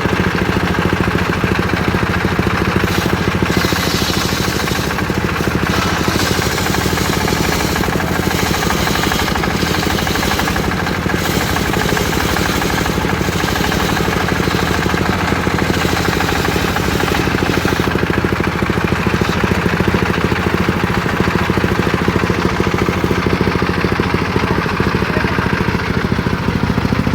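Engine of a homemade circular sawmill rig running steadily under power, with a fast even pulse. A brighter hiss comes and goes over the first two-thirds.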